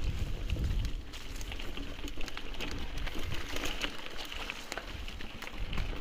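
Mountain bike rolling over a loose, stony trail: tyres crunching and crackling on gravel and rocks with a fast, irregular patter of small clicks and rattles. Wind rumble on the microphone in the first second.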